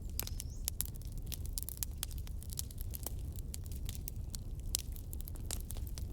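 Wood fire crackling: many quick pops and snaps of varied loudness over a steady low rumble.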